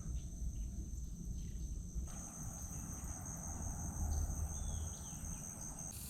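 Insects trilling: a steady, high-pitched, unbroken buzz that gets louder about two seconds in, over a low rumble.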